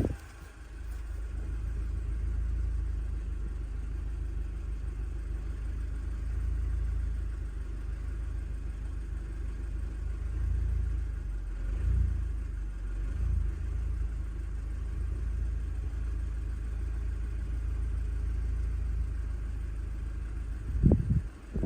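2011 Audi S3's 2.0 TFSI turbocharged four-cylinder engine running with a steady low rumble, on a car with a vacuum leak. There are small swells about two-thirds of the way through and a brief, louder thump near the end.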